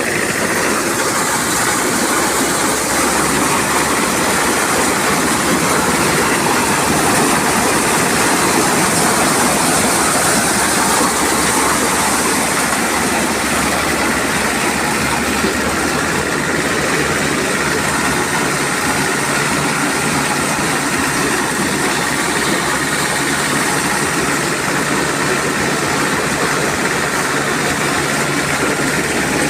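Corn sheller driven by a car engine, running steadily: a continuous engine drone under the rushing, rattling noise of the machine.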